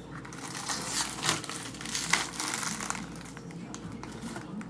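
Packaging crinkling and rustling as it is handled and pulled out, in irregular crackles that are busiest in the middle, with one sharp crackle about two seconds in.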